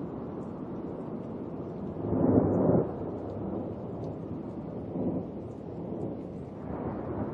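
Rolling thunder rumbling low and steadily, with a louder peal about two seconds in and smaller swells later.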